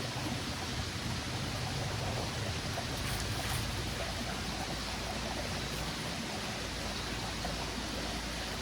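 Small mountain stream flowing, a steady rush of water.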